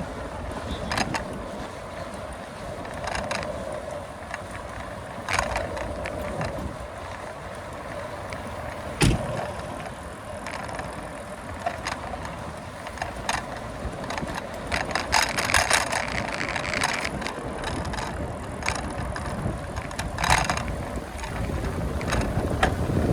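Bicycle in motion: a steady rush of wind on the microphone with the bike rattling and clicking over the road, and a sharp knock about nine seconds in.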